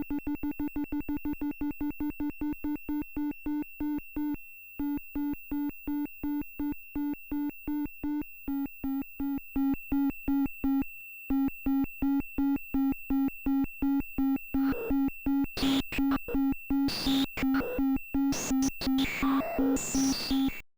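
Polytik modular synthesizer playing a fast repeating pulse on one low note, about four pulses a second, dropping out briefly twice. In the last third, harsh noisy sweeping bursts join the pulse, and the sound cuts off suddenly at the end.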